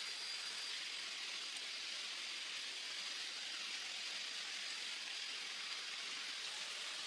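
Steady outdoor ambient hiss with a faint, thin, high steady tone above it.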